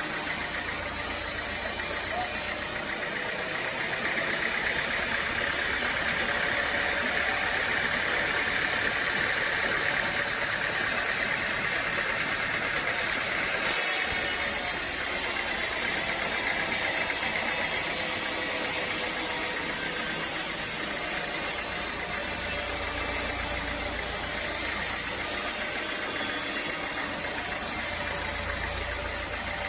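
An engine running steadily, with a constant mechanical hum and hiss. About halfway through the sound changes abruptly with a brief louder burst.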